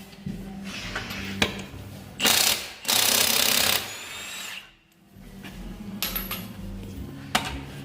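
Tool work on a brake caliper: two short, loud bursts of a power tool about two and three seconds in, with a few sharp metal knocks around them.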